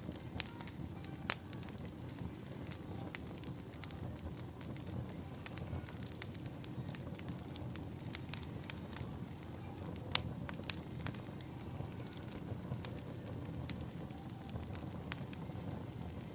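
Fireplace crackling: a steady low rumble of burning wood with irregular sharp pops and snaps, one louder pop about ten seconds in.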